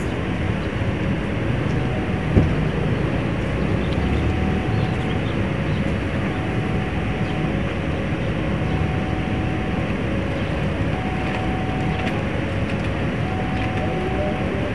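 Steady rumble of a passenger train standing at the station platform, with an electronic warning signal alternating between a higher and a lower note, each held about a second, as another train approaches. A single sharp knock about two seconds in.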